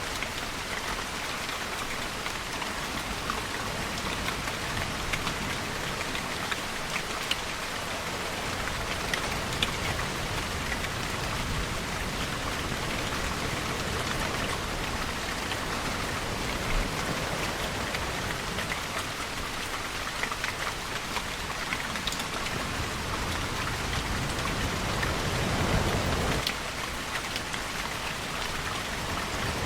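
Steady rainfall with scattered close drop ticks. A low swell builds about 24 seconds in and cuts off abruptly a couple of seconds later.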